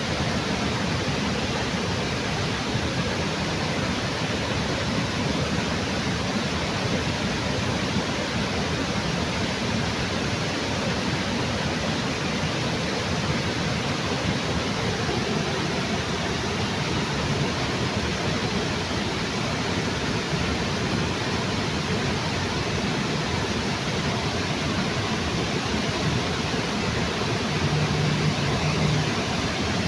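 Waterfall under a bridge: a steady, unbroken rush of falling water.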